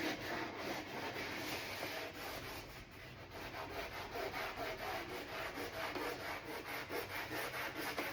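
Emery cloth rubbed by hand over the edges of a plastic door panel in quick back-and-forth strokes, with a short pause about three seconds in; the panel is being scuffed so paint will grip.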